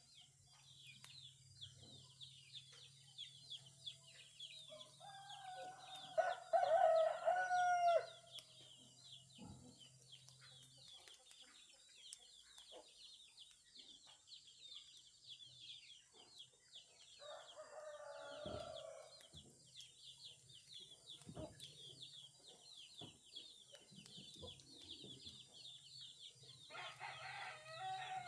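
A rooster crows loudly once, about five seconds in, with shorter fowl calls around the middle and near the end. Under them runs a constant high, rapid chirping, with a low steady hum that stops about ten seconds in.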